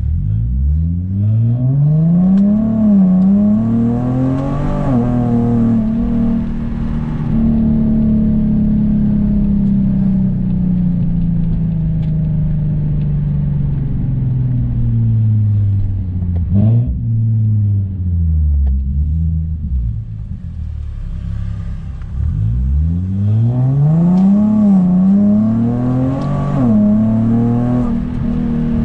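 Car engine and exhaust accelerating hard, pitch climbing with two quick gear changes in the first few seconds, then falling slowly and steadily as the car slows. About 23 seconds in it accelerates again, with another gear change near the end.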